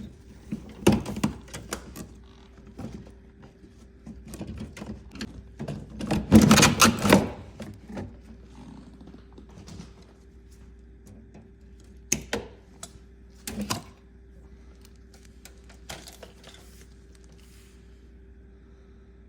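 Tools and metal parts being handled: irregular knocks and clicks, with a loud stretch of rattling about six seconds in and two sharp clicks later. A steady low hum sits underneath.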